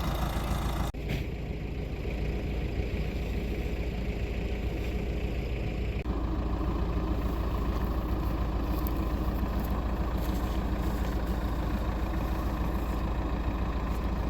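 An engine running steadily with a low, even hum, and sudden shifts in the background about a second in and about six seconds in.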